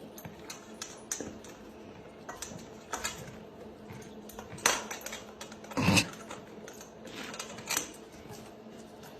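Irregular light clicks and clatters of small hard objects knocking together, with a few louder knocks around the middle.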